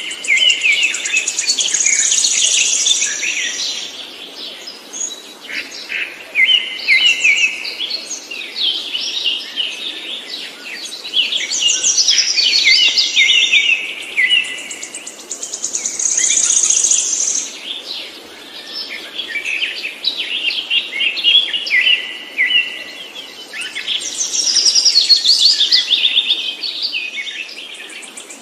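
Songbird song: rapid, complex phrases of chirps and trills, sung in bouts of a few seconds again and again with short gaps between.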